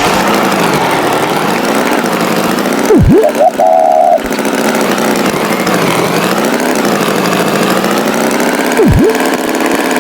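Cartoon tractor engine sound effect running steadily. A quick swooping down-and-up sound effect cuts in about three seconds in and again near the end, the first followed by a short horn toot.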